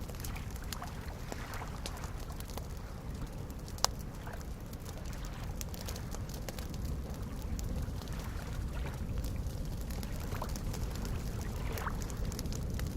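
Campfire crackling with scattered small pops and one sharp pop about four seconds in, over soft lake waves lapping steadily.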